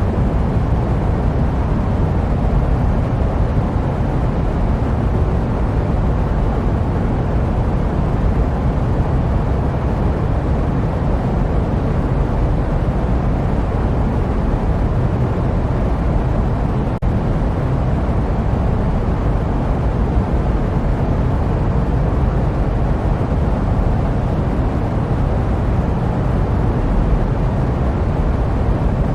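Steady jet aircraft noise: an even, deep rumbling hiss with most of its weight in the low end, dipping for an instant about seventeen seconds in.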